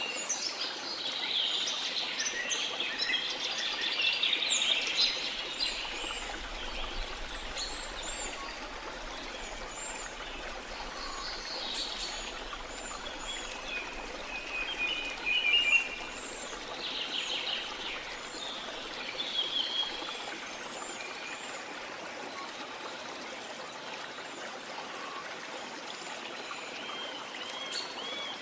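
Steady rush of falling or flowing water, with many birds chirping and calling over it; the bird calls are busiest in the first few seconds and a few louder calls stand out at intervals.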